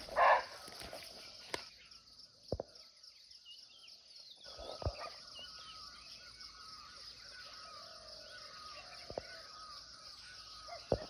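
Forest ambience with a steady high insect drone and faint bird chirps, broken just after the start by one short, loud bark of a barking deer (Indian muntjac).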